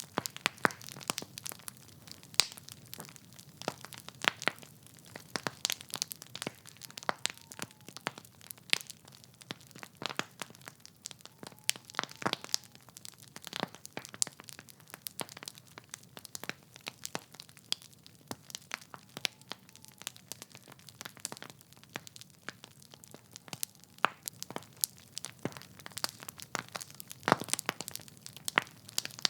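Wood fire burning in a fireplace: logs crackling and popping with irregular sharp snaps, several a second, over a soft steady hiss of flame.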